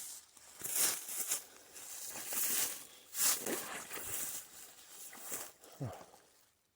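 Footsteps crunching and swishing through dry brush and leaves, an uneven scuff every half second to second, with a short low falling sound near the end.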